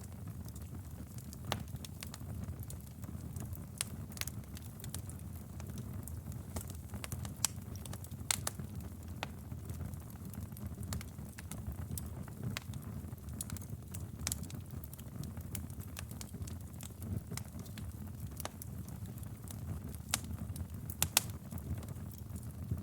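Wood fire in a fireplace burning with a steady low rumble and irregular sharp crackles and pops, a quick cluster of pops near the end.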